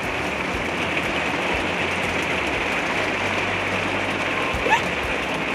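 Heavy rain pouring down on an RV, heard from inside as a steady, even hiss.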